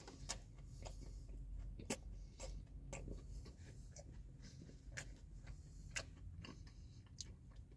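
Faint chewing of a garlic parmesan boneless chicken wing dipped in ranch: soft, irregular wet mouth clicks, about one or two a second, over a low steady rumble.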